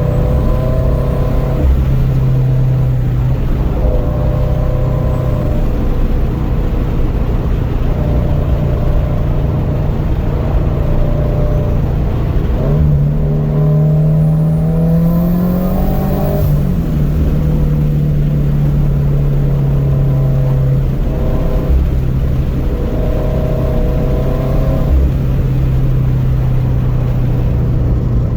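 Turbocharged Scion FR-S flat-four engine through a Remark quad-tip exhaust, driving: a steady cruising rumble. About 13 seconds in the engine pitch rises as the car accelerates, then it settles back to a steady drone.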